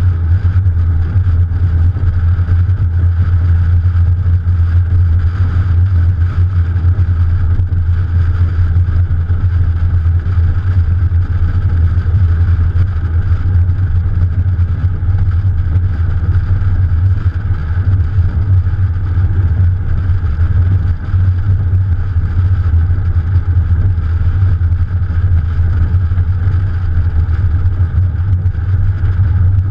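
Morgan Plus 4's Ford 2.0-litre four-cylinder engine running steadily while the car drives along, heard from the bonnet-mounted camera with a strong low rumble of wind and road noise.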